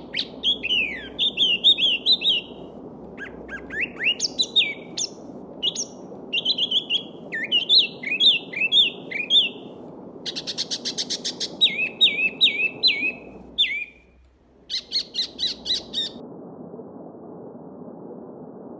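Small songbirds singing quick chirping phrases of sliding notes over a steady babbling stream. The singing stops about three-quarters of the way through, and the stream sound cuts out briefly just before that.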